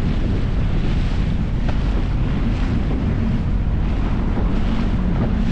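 Wind buffeting the microphone over the steady running of a small speed boat's motor and the water around the hull.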